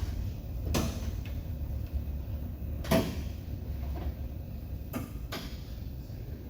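A few short knocks and clunks, the loudest about three seconds in, over a low steady rumble.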